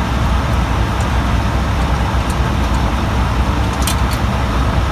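Steady rumble of road traffic going by, with a couple of light clicks near the end.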